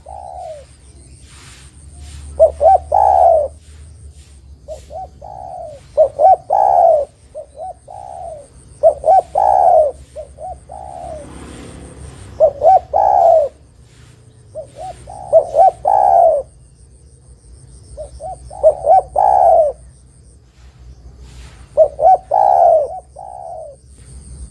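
Spotted dove (derkuku) cooing: a phrase of several short coos, repeated about every three seconds, seven times in all.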